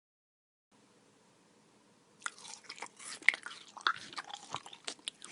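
Crunchy chewing and biting, an irregular run of crisp crunches that starts about two seconds in, after a silent start.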